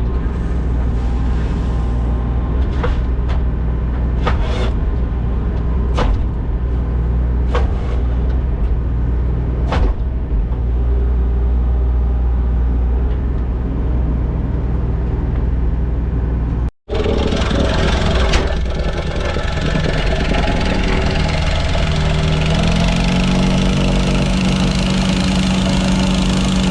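Construction machine engine running steadily, with several sharp knocks or clanks in the first half. After a break about two-thirds of the way in, an engine runs on and speeds up, its pitch rising, near the end.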